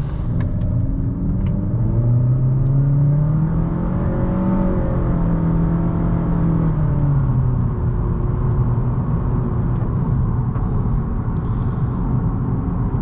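2018 Honda Accord 1.5T Sport's turbocharged 1.5-litre four-cylinder pulling away under acceleration: the engine note rises over the first few seconds, holds, then eases off about seven seconds in, leaving mostly steady tyre and road noise.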